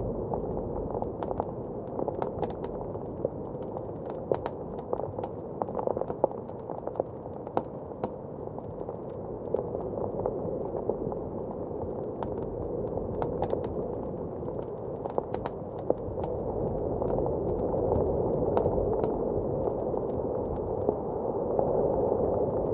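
Wood fire crackling with many small irregular pops and snaps over a steady blizzard wind, the wind swelling louder in the second half and again near the end.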